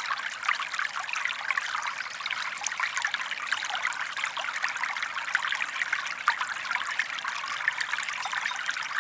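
Shallow forest stream flowing and trickling steadily over stones, a dense splashing babble.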